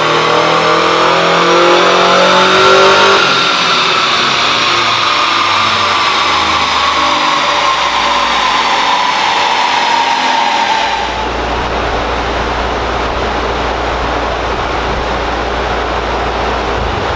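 Turbocharged Subaru Crosstrek's FB20 flat-four on a chassis dyno, climbing in revs through a pull for about three seconds before the throttle closes. A whine then falls slowly in pitch as it winds down, and a little past halfway it gives way to a steady low hum with a rushing noise.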